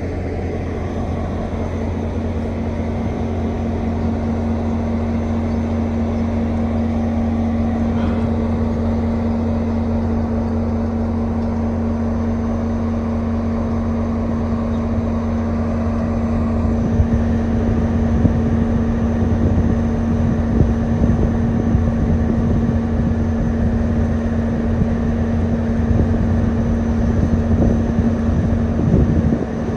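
Steady low drone of a vehicle running, with a constant hum; it grows slightly louder and rougher about halfway through.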